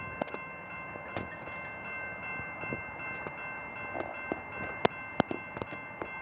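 Railroad grade-crossing bell ringing steadily, its high ringing tone held throughout, with scattered sharp clicks, the loudest a little after the middle.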